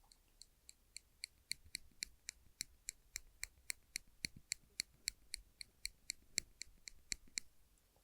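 Silver clips being squeezed and released over and over, giving a quick, even run of bright metallic clicks, about four a second, each with the same high ringing note. The clicks stop shortly before the end.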